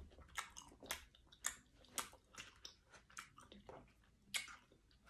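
A person chewing a mouthful of taco with open-mouthed, wet lip smacking, about two smacks a second, the loudest one near the end.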